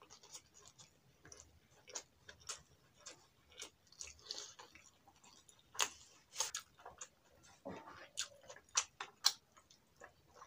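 Eating by hand from big mouthfuls of rice: irregular wet smacks and mouth clicks of chewing, the sharpest ones in the second half.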